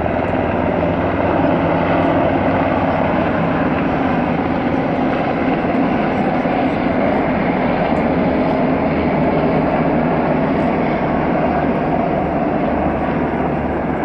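Military helicopters flying overhead: a loud, steady rotor and engine drone that swells slightly about a second and a half in and eases a little near the end.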